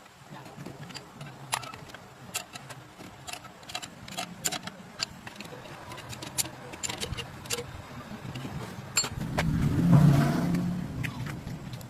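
Scattered light metallic clicks and clinks of hand work over a low steady hum. About nine seconds in, a louder rushing swell rises, peaks and fades over about two seconds.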